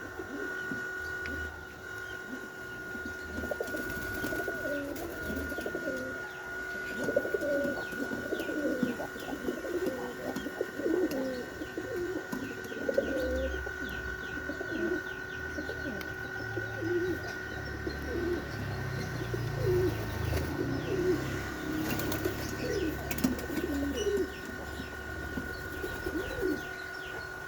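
Doves cooing, many short calls one after another, with faint chirps higher up, over a steady high-pitched hum.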